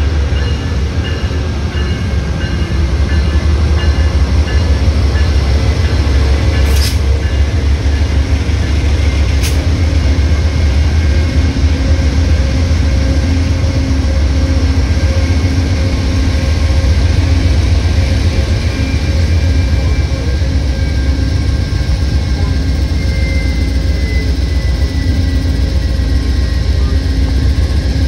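Amtrak train pulling past under power, two GE P42DC diesel locomotives leading: a steady deep engine rumble with the passenger cars rolling along the rails behind. Two brief sharp clicks come from the wheels or rails along the way.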